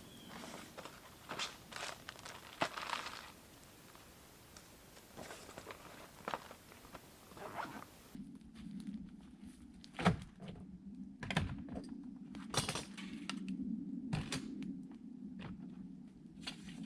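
Scattered knocks, thunks and rustling, as of things being handled. About eight seconds in, a steady low hum comes in under sharper knocks.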